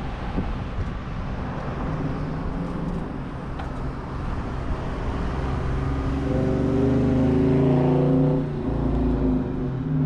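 Wind buffeting the microphone during a ride, with a motor vehicle's engine that comes in about six seconds in and grows louder toward the end.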